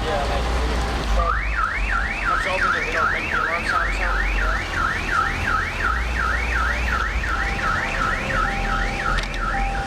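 Car alarm siren sounding, a tone sweeping up in pitch over and over, about two and a half times a second. It starts about a second in and stops near the end, over a steady low rumble.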